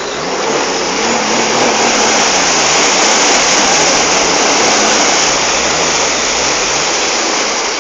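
Loud steady rush of water and wind while being towed at speed behind a jet ski. Underneath, the jet ski's engine note rises and falls as the throttle changes.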